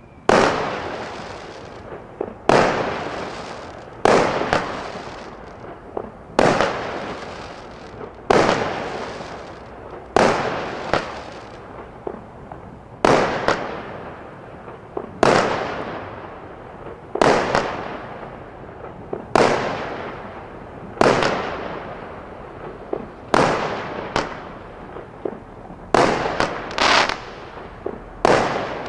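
Jonathans Fireworks 'Fine And Dandy' firework going off shot after shot, a loud burst about every two seconds. Each burst fades away over a second or so, and many are preceded by a small sharp pop. Near the end the shots come closer together.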